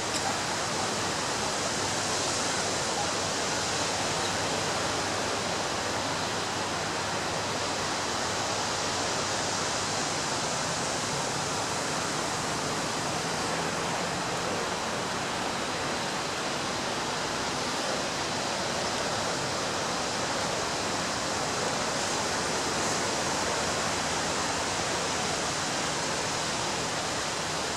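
Ocean surf: a steady wash of breaking waves with little rise and fall.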